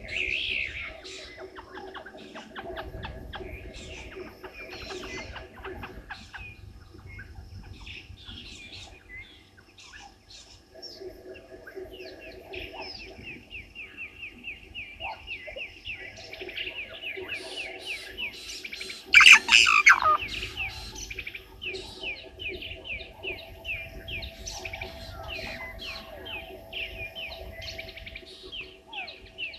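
Several wild birds calling: chirps and quick runs of repeated notes throughout, with one loud, harsh call about 19 seconds in.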